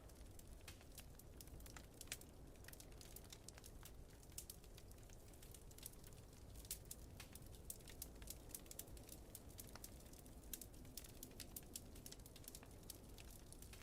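Wood fire crackling softly, with irregular small pops and snaps coming several times a second over a low steady rumble.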